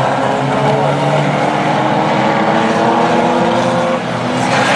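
Several Reliant Robin racing cars' engines running hard together, their pitches rising and falling as they rev. There is a brief dip about four seconds in, then a rush of noise near the end.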